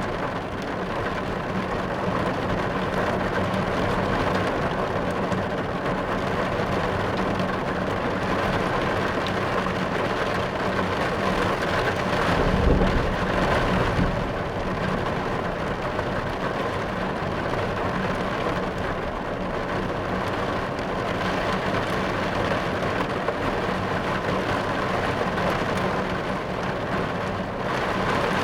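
Steady rain drumming on a car's roof and windows, heard from inside the car, with a low roll of thunder a little before halfway through.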